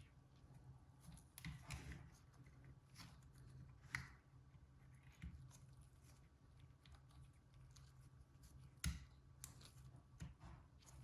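Faint scattered clicks, light taps and short scrapes of small hard objects being handled, the sharpest click about four seconds in and another near the end, over a low steady hum.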